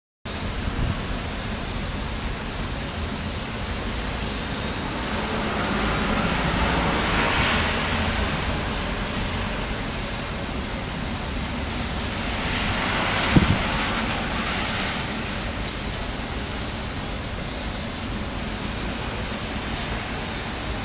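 Strong typhoon wind gusting through trees, a continuous rushing of leaves and branches with wind buffeting the microphone as a low rumble. The gusts swell twice, and a short knock comes about 13 seconds in.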